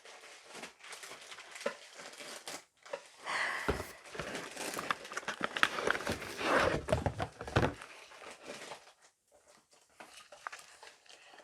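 Plastic packaging crinkling and rustling as a spool of PLA 3D-printer filament is handled, with scattered small clicks and knocks. The rustling is loudest from about three to eight seconds in.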